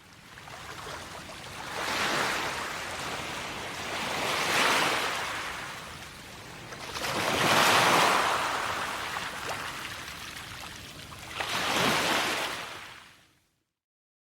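Rushing noise that swells and fades four times, like waves washing in, then cuts off suddenly near the end.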